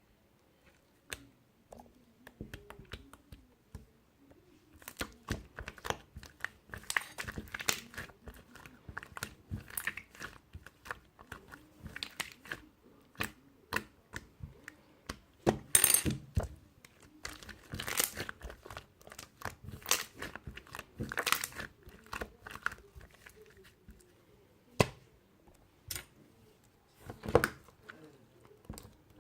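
Slime being squeezed and worked by hand, giving irregular crackling and popping clicks, with a few louder pops.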